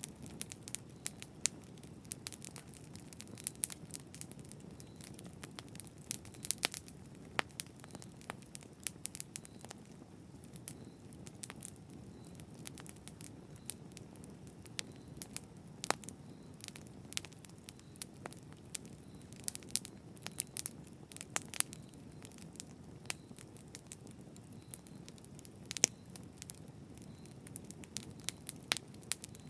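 Campfire burning, wood crackling with sharp irregular pops over a soft low rumble of the flames.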